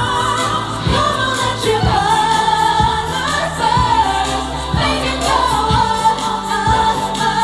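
Music: a group of voices singing in harmony over a steady beat of about one stroke a second.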